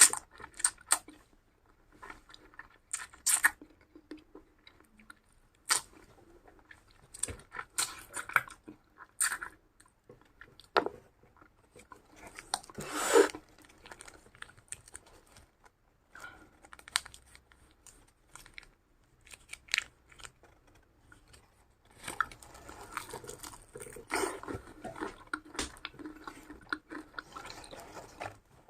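A person biting and chewing crunchy food close to the microphone: scattered sharp crunches at first, with one longer loud crunch near the middle, then steadier, denser chewing in the last few seconds.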